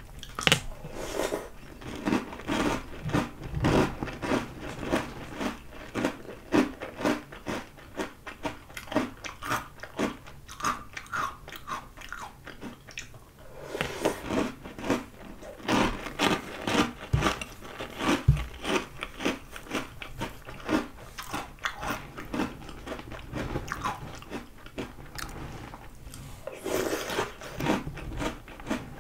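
Close-up crunching and chewing of Oreo O's chocolate ring cereal, a rapid run of crisp crunches that pauses briefly about halfway through and starts again louder with a fresh spoonful.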